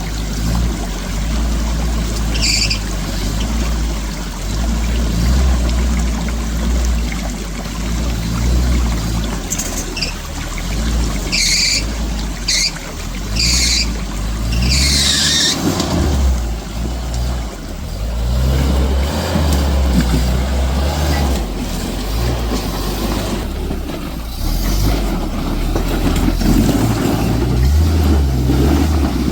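A vehicle engine running, its level rising and falling, with several short hissing bursts in the first half.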